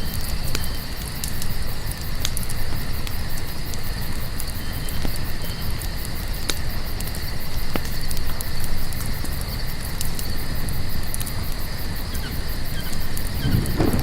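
Campfire crackling with a low rumble and a few sharp pops, over a steady high-pitched chorus of crickets. A deeper rumble swells up near the end.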